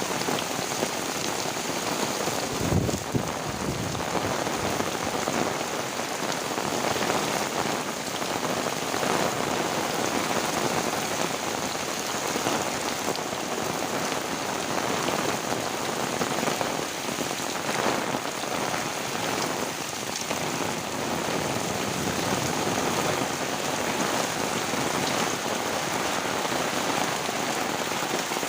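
Heavy rain falling steadily, with a brief low thump about three seconds in.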